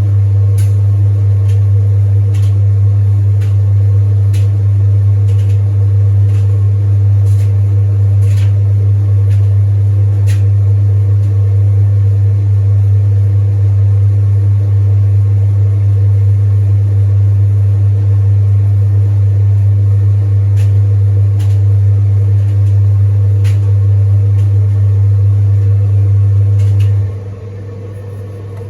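Zanussi TD200 vented tumble dryer running: a steady low hum from its drum motor and separate blower fan, with a few light knocks from the tumbling load. Near the end the hum drops sharply as the drum motor stops to reverse direction, leaving the quieter blower running.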